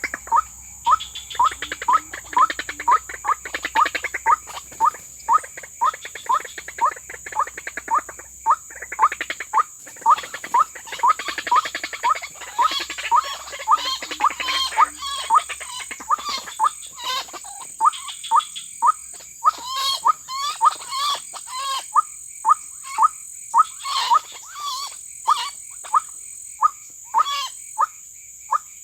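White-breasted waterhen calls, a short hooked note repeated about twice a second, quickening and slowing in bouts. A steady high insect drone runs underneath.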